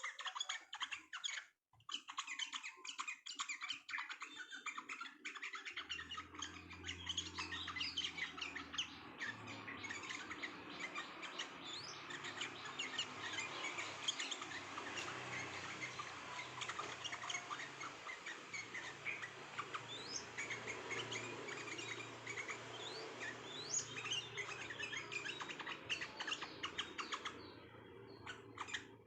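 A dense chorus of small songbirds chirping and twittering, many quick calls and short whistled sweeps overlapping almost without a break. A low steady hum comes in about six seconds in.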